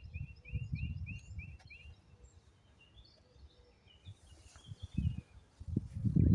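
Small bird chirping a quick run of about seven repeated notes in the first two seconds, with scattered fainter chirps after. Irregular low rumbling comes and goes underneath.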